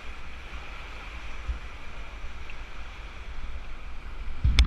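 River water rushing steadily around an inflatable raft, with low gusts of wind on the microphone. A sudden sharp knock near the end.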